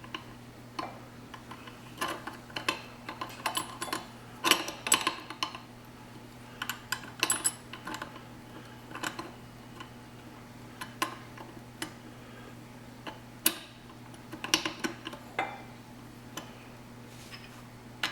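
Scattered clicks and clinks of metal grinder parts being handled and fitted together as a meat grinder head is assembled: the cutting blade and medium grinding plate going onto the auger. A faint steady low hum runs underneath.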